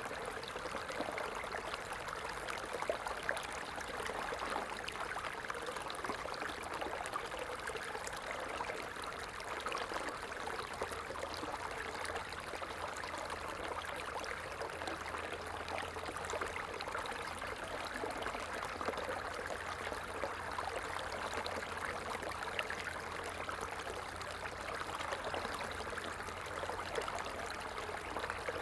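Stream water flowing steadily, an even rushing trickle with no breaks. A faint low hum joins underneath about a third of the way in.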